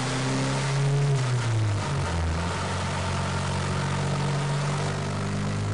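Turbocharged truck engine running under load on a chassis dyno during a boost-controller test pull. Its pitch drops about a second and a half in, then climbs back and holds steady.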